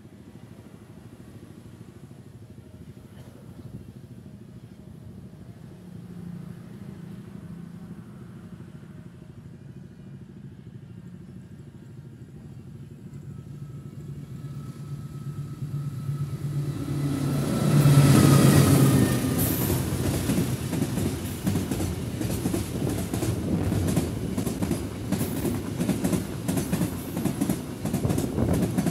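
A diesel locomotive hauling a container freight train approaches under throttle, its engine sound building steadily and loudest as it passes about 18 seconds in. After it come the rattle of the container flat wagons and the regular clickety-clack of their wheels over the rail joints.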